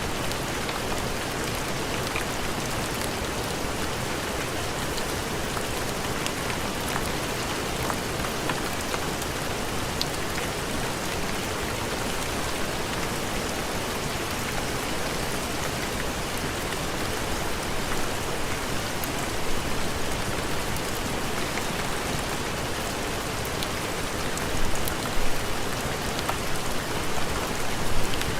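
Steady heavy rain with scattered small pops and ticks, and a few brief louder swells in the last ten seconds.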